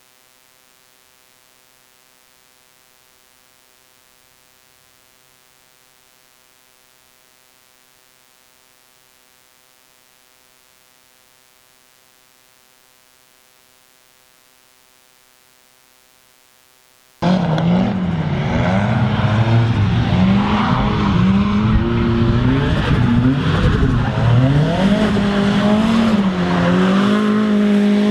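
A faint steady hum for most of the first two-thirds, then an abrupt cut to a drift car's engine revving up and down hard as it slides, with tyre noise.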